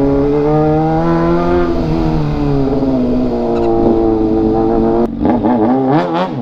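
Motor vehicle engine accelerating: its pitch climbs for under two seconds, drops as it shifts up, climbs again more slowly, then rises and falls quickly several times near the end.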